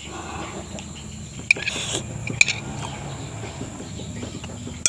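Eating utensils clinking against a dish: sharp clinks about a second and a half in, again near two and a half seconds and near the end, with a short rustling rush just before two seconds.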